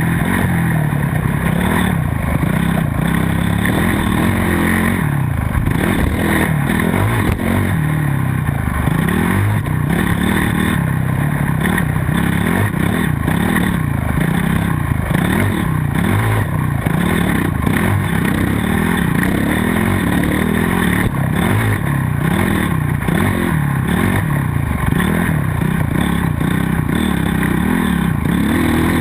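Motocross bike engine revving hard, its pitch climbing and dropping again and again as the throttle is opened and closed, with some clattering.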